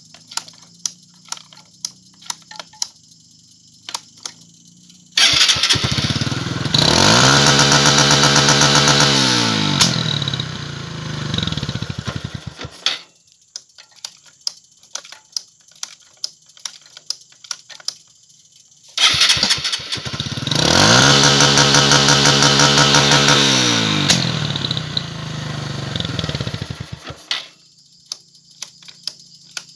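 Motorcycle engine fitted with an aftermarket CDI, revved hard twice into the CDI's rev-limiter cut: each time the pitch climbs, holds at the top with a rapid stutter as the limiter cuts the ignition, then falls back to idle. Between the runs it idles unevenly with irregular sharp pops.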